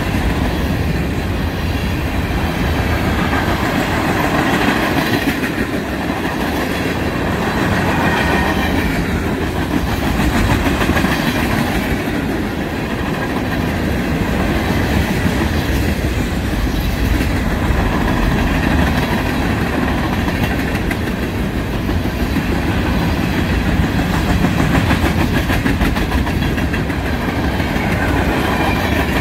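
Freight train cars (covered hoppers and boxcars) rolling past at speed: a steady, loud noise of steel wheels running on rail, with fine clicking near the end.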